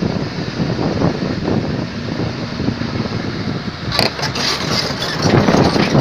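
An engine running with a rough, steady rattle; there is a sharp click about four seconds in, and the sound grows louder from about five seconds on.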